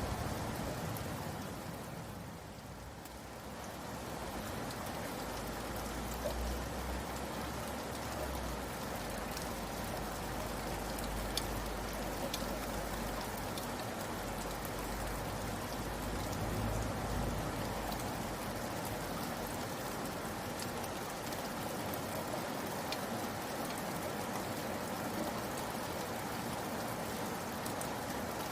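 Steady rain falling, with single drops ticking now and then. The rain eases briefly near the start, and a low rumble runs underneath for a stretch in the middle.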